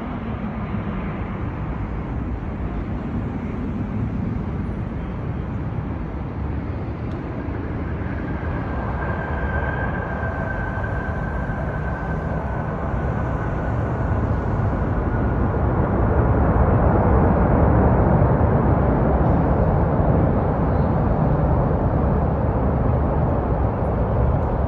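Jet noise from a Boeing 757-324 airliner, a steady noise that grows louder about two-thirds of the way through. A faint high whine comes in near the middle and fades after a few seconds.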